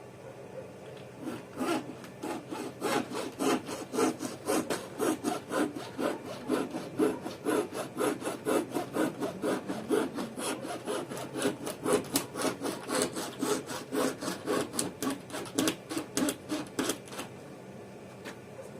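Windscreen-removal wire or cord sawn back and forth through the urethane bonding sealant to cut the old glass free. It makes a long series of rapid, rhythmic rasping strokes that stop near the end.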